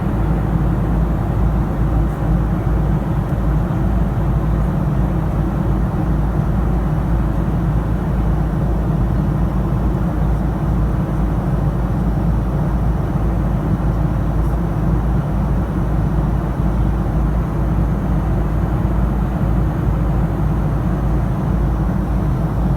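Aeroplane cabin noise in flight: a steady, deep hum of engines and rushing air, unchanging throughout.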